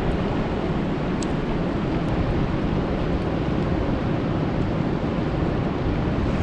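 Steady rain falling on a lake's surface: an even wash of noise with a few faint, sharp drop ticks in the first two seconds.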